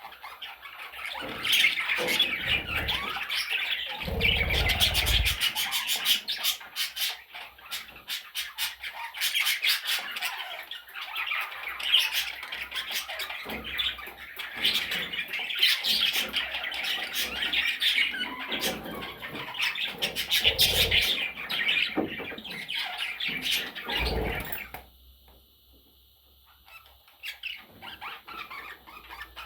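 Budgerigar chattering: a long, busy warble of squawks, chirps and clicks that stops near the end.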